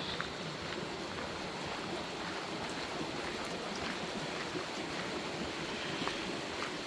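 Steady rushing of running water, with a few faint small ticks scattered through it.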